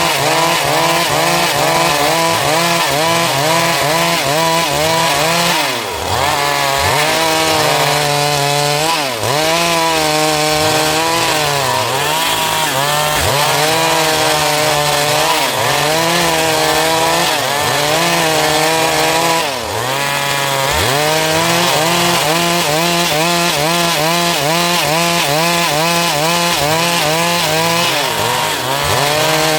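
Stihl MS 382 two-stroke chainsaw running at high revs while cutting a dry log, its pitch wavering as the chain loads and unloads in the wood. Its speed dips briefly three times.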